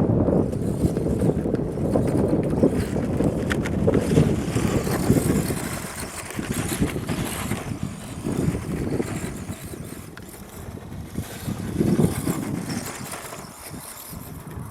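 Battery-powered RC short-course truck running over the ground, its tyres and drivetrain making a noisy rumble, with wind on the microphone. It grows fainter in the second half, with a brief swell near the end.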